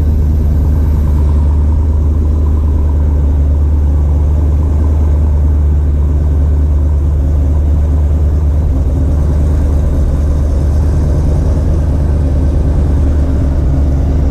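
A 1995 Vortech-supercharged Ford Mustang's engine idling steadily, warming up after a cold start.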